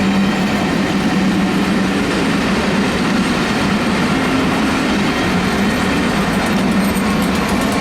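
A train running past with a steady, loud rumble of wheels on the rails.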